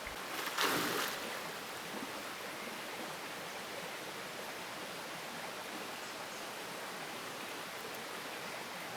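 Steady rushing noise of flowing water, with a brief louder swish a little over half a second in.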